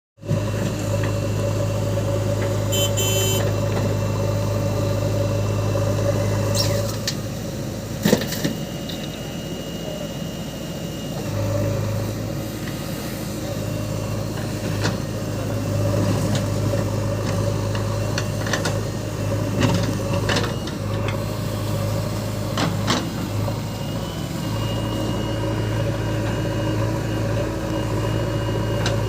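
JCB 3DX backhoe loader's diesel engine running with a steady low hum that eases off twice for a few seconds. A few sharp knocks cut through it, the loudest about eight seconds in.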